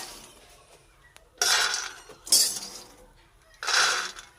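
A metal spoon scooping ghee-roasted makhana (fox nuts) out of a pan, three noisy rattling scoops about a second apart.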